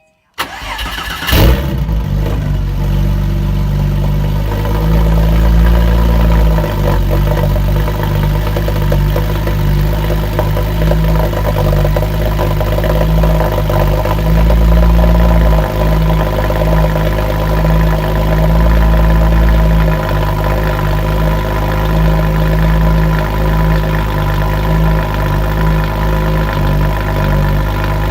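Porsche 996 Turbo's twin-turbo flat-six, fitted with an X-pipe exhaust, cranks and catches about a second in with a brief flare, then settles into a steady cold-start idle.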